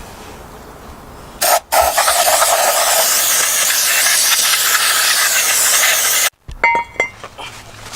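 Aerosol brake cleaner spraying onto a new brake rotor to strip its factory coating of grease: a short burst, then one long hiss of about four and a half seconds that cuts off suddenly, followed by a few light ticks.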